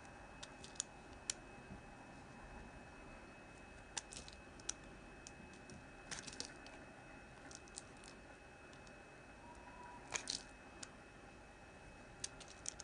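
Knife cutting into hard bar soap: scattered crisp clicks and crunches in small clusters a few seconds apart, the loudest about ten seconds in, over a faint steady high hum.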